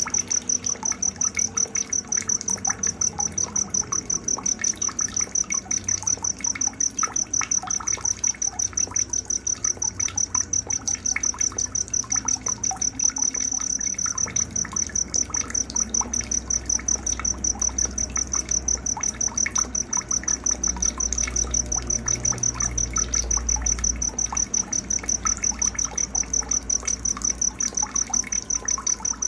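Night nature soundscape: a high, steady insect chirping pulsing a few times a second, with scattered short bird chirps and a faint trickle of water beneath.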